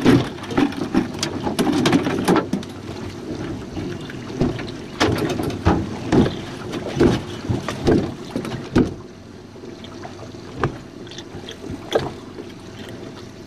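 Water slapping and knocking irregularly against a drifting jon boat's hull, busy for the first nine seconds or so and then quieter with only a few single knocks.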